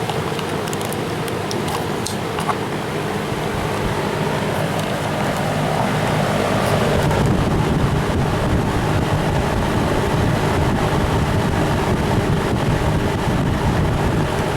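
1971 Electrohome 652-1-C 20-inch box fan running on high: a steady rush of moving air with a low hum, growing louder about six seconds in.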